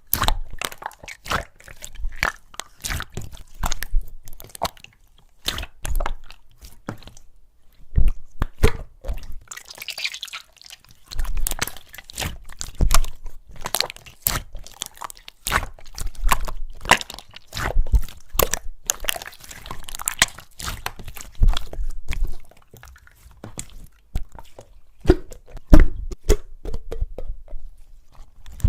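Hands squishing, folding and pressing a mixture of slimes, making irregular sticky pops, clicks and crackles.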